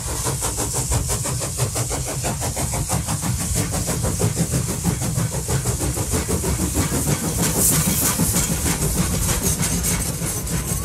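Train engine running steadily: a fast, even pulsing over a heavy low rumble.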